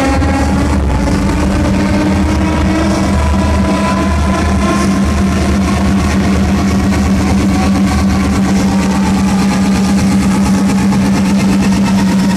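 Loud electronic dance music, a progressive house build-up played over a club sound system. A held low synth note and deep bass sit under a fast, steady pulse of beats, with a faint rising synth line in the first few seconds.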